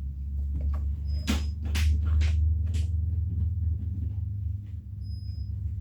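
A few sharp knocks and clatters, bunched in the first three seconds, over a steady low hum.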